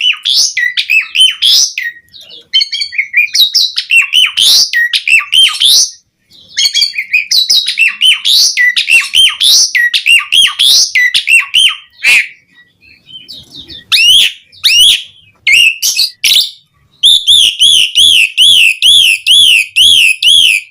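Asian pied starling in full, busy song: a varied run of chirps and whistles in bursts broken by short pauses. Near the end it settles into a fast, evenly repeated up-and-down trill, about three a second.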